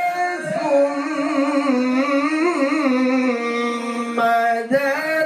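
A man's voice intoning long held notes with wavering, ornamented pitch, in the melismatic style of Quranic recitation (tilawah), with a short break for breath near the end.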